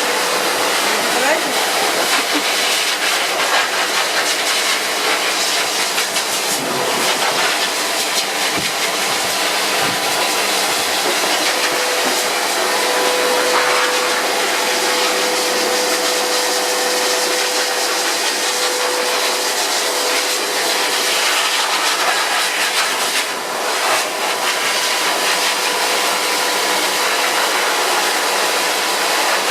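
Twin-turbine compressor dog dryer (grooming blaster) running steadily on one turbine at low power, about 20% of full: a constant rush of blown air with a steady motor whine.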